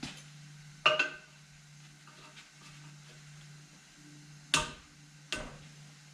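Three sharp metallic clinks with a brief ring, about a second in, near four and a half seconds and just after five seconds, over a steady low hum.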